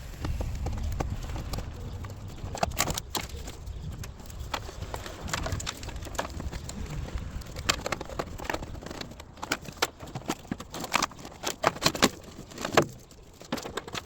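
Irregular clicks, knocks and clinks of hand work on a car's engine bay, with a low rumble in the first few seconds.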